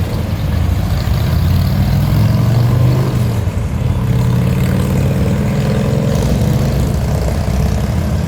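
A heavy engine running close by with a deep, steady hum that swells to its loudest about two to three seconds in.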